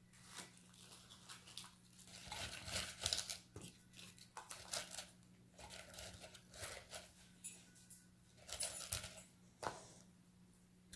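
Faint, scattered rustling and crinkling with light clicks and knocks of hands handling things, over a faint steady low hum; no motor is running.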